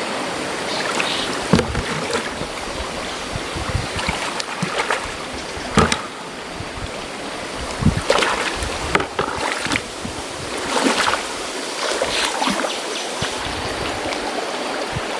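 River water splashing and sloshing, with irregular sharper splashes or knocks every second or two over a steady wash of water.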